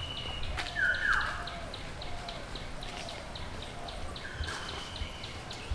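Birds calling in the trees: a rapid, even run of short high chirps, about five a second, with a few falling calls near the start. Soft thuds of footsteps underneath.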